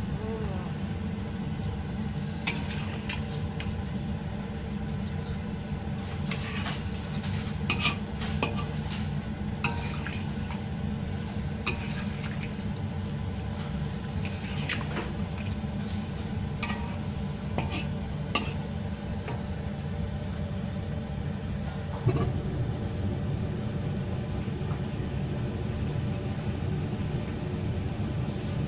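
A metal spoon clinking and scraping against a cooking pot at irregular intervals as a pot of chicken curry is stirred, over a steady low hum.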